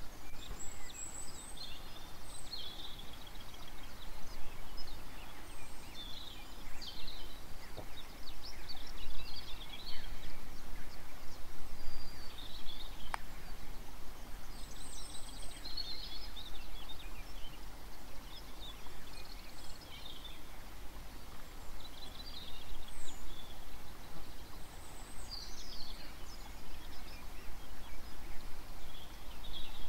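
Small birds chirping and trilling on and off over a steady low background rumble, with a single faint click about halfway through.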